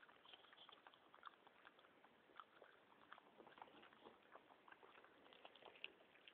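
Dog chewing gum: faint, irregular smacking clicks of its jaws.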